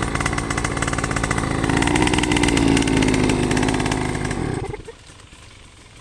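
Two-stroke KTM dirt bike engine running, its pitch rising slightly partway through, then cutting off suddenly near the end.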